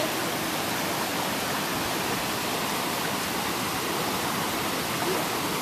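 River water running over stones in a steady, even rush.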